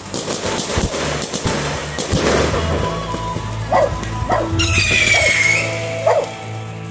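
A small dog yipping in short, repeated yelps over steady background music, with scattered crackling pops in the first few seconds.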